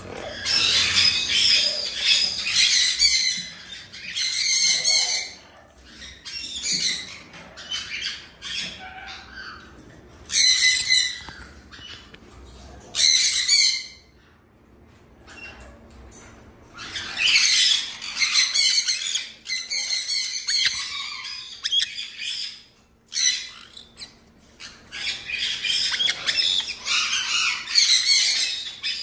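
Parrots squawking in repeated bouts of shrill calls, with a short lull about halfway through.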